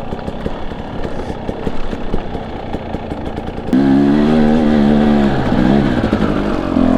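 Husqvarna TE250i two-stroke dirt bike engine running unevenly at low revs, then revved hard about four seconds in, held for a second or two and dropping back, with a short blip of throttle near the end.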